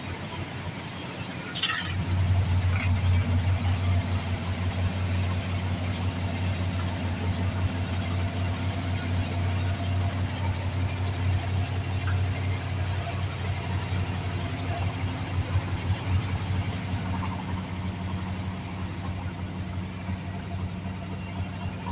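Ford Thunderbird engine running steadily at idle, getting louder about two seconds in and holding an even note after that.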